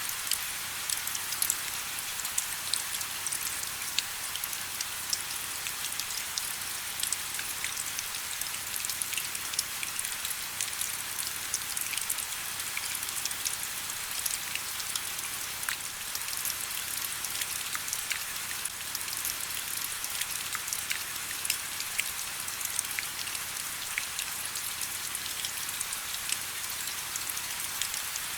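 Steady rain with many individual drops pattering on a surface, a dense hiss of close drop ticks with no let-up.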